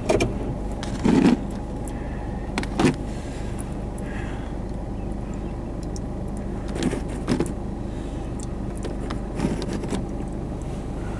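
Car engine idling with a steady low hum, broken by several short, sudden bursts of noise, the loudest about a second in and near three seconds.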